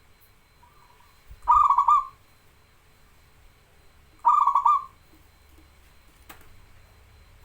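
Zebra dove (perkutut) cooing: two short, rapidly pulsed coo phrases about two and a half seconds apart, with a faint one just before the first. A single sharp click comes near the end.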